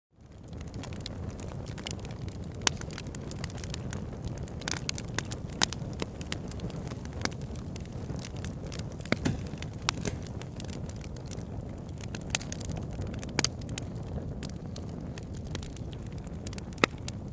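Wood fire burning in a fireplace: a steady low rustle of flames with sharp crackles and pops scattered throughout, and a handful of louder snaps. It fades in from silence right at the start.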